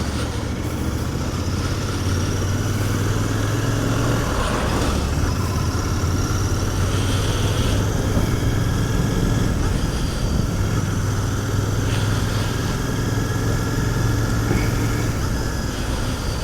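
Royal Enfield Continental GT 650's parallel-twin engine running steadily at cruising speed through its stock exhaust, heard from the moving bike with wind rush.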